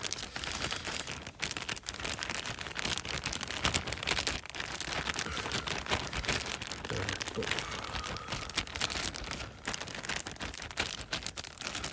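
Plastic bag crinkling and rustling as food is kneaded by hand to work in a marinade.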